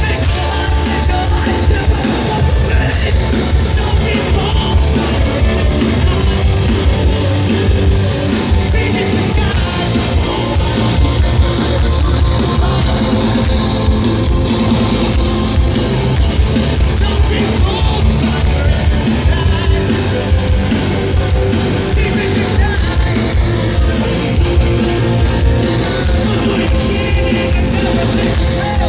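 Loud live hardcore band performance: distorted electric guitars, bass and pounding drums, with shouted vocals.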